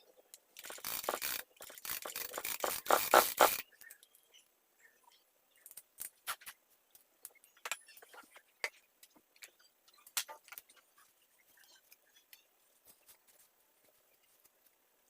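Scraping and brushing during the cleaning of a mini chainsaw, followed by scattered light clicks and taps of small parts and tools being handled.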